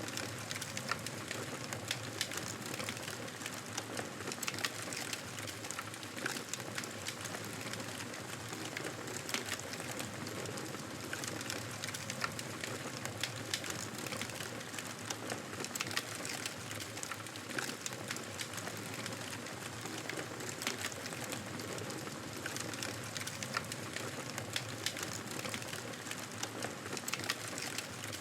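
Wood campfire burning, a steady hiss with frequent small crackles and pops throughout.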